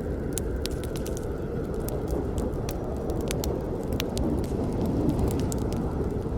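Campfire burning: a steady low rush of flames with frequent sharp crackles and pops from the burning wood, scattered irregularly, a few of them louder.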